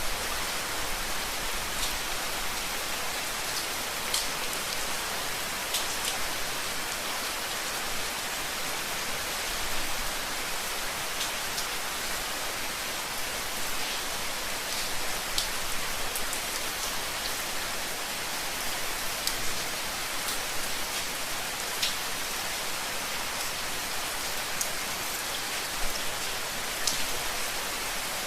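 Steady rain falling, an even hiss with scattered louder individual drop ticks.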